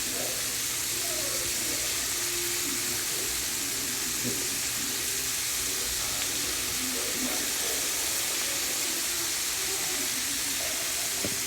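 Chicken wings deep-frying in hot oil, giving a steady high sizzle.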